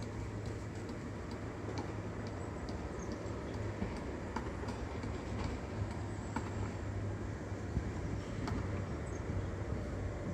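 Steady low outdoor rumble with a constant low hum, and scattered faint light clicks through it.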